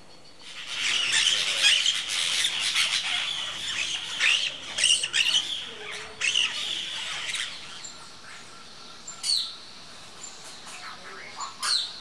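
Forest birds calling: a dense run of loud, harsh calls for about seven seconds, then two short calls near the end.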